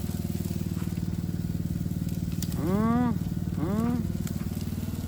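Chicken sizzling as it fries, over a steady, evenly pulsing low motor hum. Two short voiced sounds rise and fall in pitch about halfway through.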